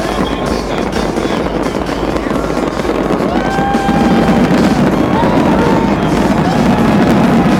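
Fireworks crackling and popping over a noisy crowd, with several long whistle-like tones that rise and then hold, one after another.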